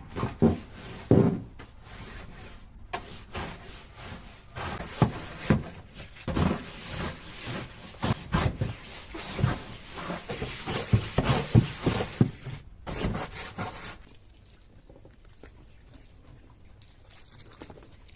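Scrubbing: irregular rubbing strokes, stopping about fourteen seconds in.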